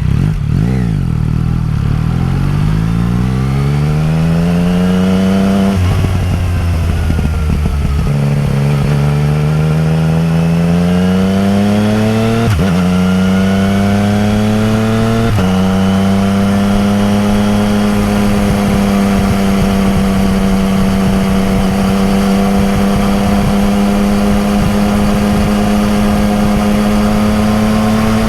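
Yamaha MT-09 Tracer's three-cylinder engine through an Akrapovič exhaust, accelerating hard up through the gears with the note dropping at about three upshifts, then holding a steady high-revving cruise for the last dozen seconds.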